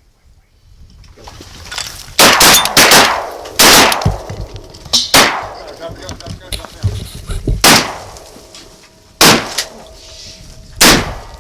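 A volley of about seven shotgun shots from several duck hunters firing at pintails, very loud and close, spaced unevenly over about nine seconds, each with a short echoing tail.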